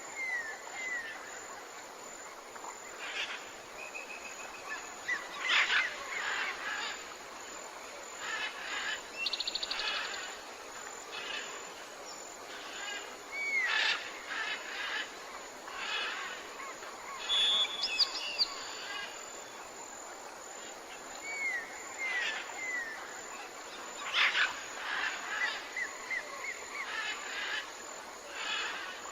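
Several forest birds calling: short whistled notes that curve up and down, clusters of chirps and quick high trills, recurring every few seconds over a steady faint hiss.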